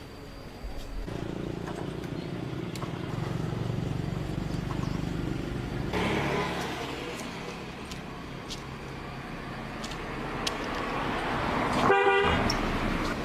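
A motor vehicle's engine starts up about a second in and runs, swelling around the middle as it moves off. Near the end comes one short horn honk.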